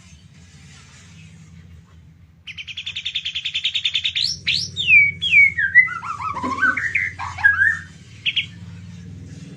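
White-rumped shama (murai batu) singing: starting about two seconds in, a fast rattling trill of repeated notes, then a run of loud whistled notes sliding up and down, ending with a short note. The owner says the bird is over-aroused ('over birahi').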